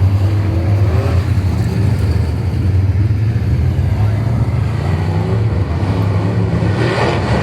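Late-model stock car's Chevy LS V8 running hard on track: a steady, loud engine drone whose pitch rises and falls a little as the revs change.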